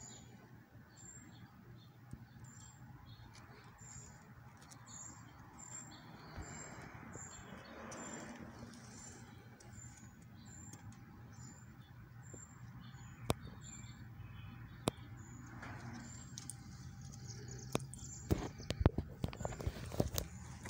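A small bird repeating a short, high chirp about once or twice a second over a low steady hum. A few sharp clicks come later, then a run of louder knocks and clicks near the end.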